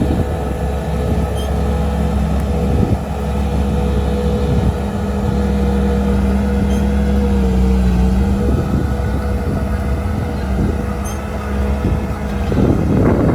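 Heavy diesel engine of a construction vehicle running steadily under a deep rumble, with a steady whine over it. A louder, rushing burst of noise comes near the end.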